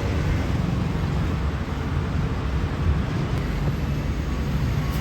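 Steady low rumble of road traffic, vehicle engines running by the roadside.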